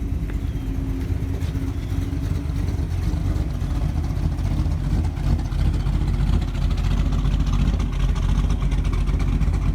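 1948 Mercury coupe's engine idling with a steady rumble, its cam giving it a slight lope.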